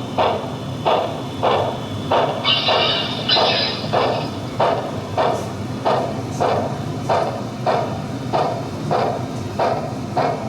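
Recorded steam sounds from an HO scale model locomotive's sound system: steady chuffing, a little under two beats a second. Two short steam whistle blasts come about two and a half seconds in.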